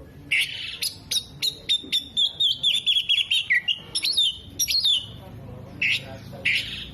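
Oriental magpie-robin (kacer) in full, loud song: a rapid run of whistled notes and chirps with a fast trill in the middle and harsh rasping calls near the end. It is a song laced with mimicked calls of other birds such as sunbird, cucak jenggot and lovebird.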